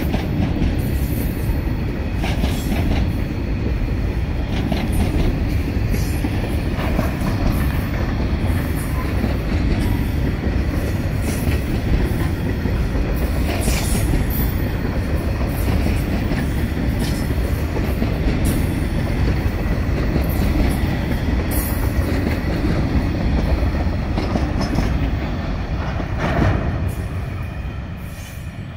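Wood chip train hopper wagons rolling past: a steady heavy rumble of steel wheels on rail with irregular clacks, fading over the last few seconds as the end of the train goes by.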